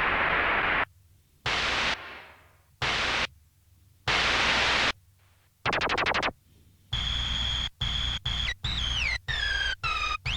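Roland SP-404 mk2 sampler playing a white-noise sample through its effects, auditioned as raw material for a snare. Four separate bursts of hiss, each cut off sharply, are followed by a rapid run of short noise hits carrying a high whistling tone that slides down in pitch near the end.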